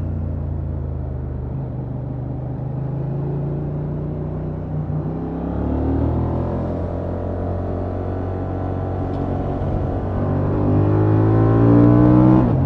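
Honda XL750 Transalp's 755 cc parallel-twin engine through its stock exhaust, under way. The revs ease off, with a gear change about five seconds in, then climb steadily under acceleration and drop sharply at the next upshift near the end.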